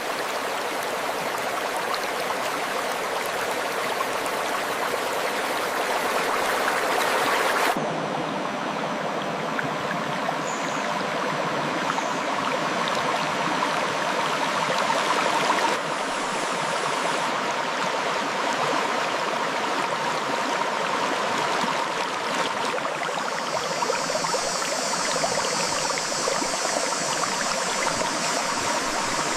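River water flowing over rocks, a steady rushing, babbling stream. The texture changes abruptly twice, about a quarter of the way in and again about halfway.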